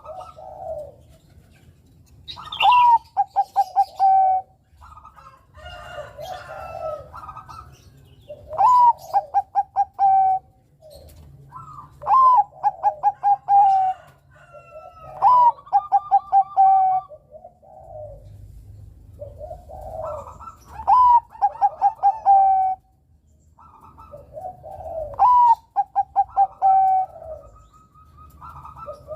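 Zebra dove (perkutut, Bangkok type) singing: six song phrases a few seconds apart, each opening with a rising note and running into a quick string of short, clipped coos, with softer calls in between.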